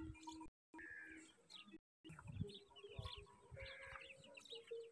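Faint bird chirping: many short, high chirps with a few held notes, the background twice dropping out to dead silence for a moment.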